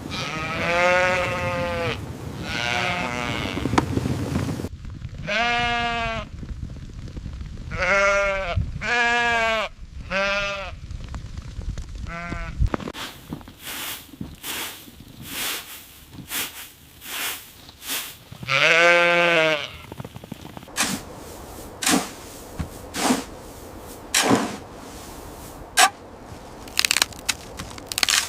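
An animal gives about eight bleating calls, each up to about a second long with a wavering pitch, most of them in the first half. These are followed by a run of sharp clicks and light knocks.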